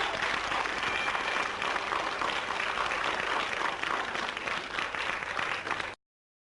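Audience applauding, a dense, steady clatter of many hands that cuts off abruptly about six seconds in.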